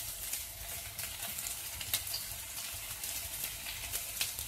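Prawns and vegetables sizzling in hot oil in a frying pan as sliced onion is slid in from a plate, with a few sharp clicks.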